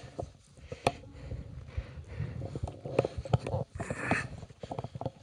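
Irregular knocks and scuffs of a hiker scrambling over rocks, with a brief rustling scrape about four seconds in.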